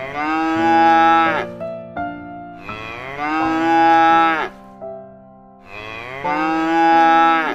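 Cow mooing three times, each a long call of over a second that drops away at the end.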